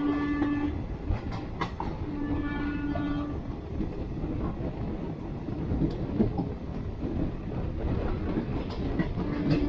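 Jan Shatabdi Express train running on the track, with rumble and clickety-clack, as its horn sounds in blasts: one ending just after the start, a blast of about a second around two seconds in, and another starting near the end.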